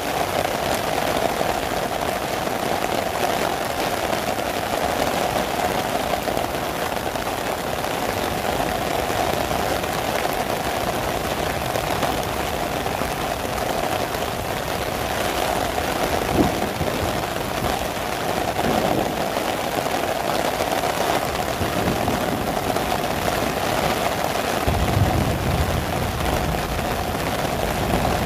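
Heavy rain falling steadily on an umbrella overhead and on wet paving, with a brief low rumble near the end.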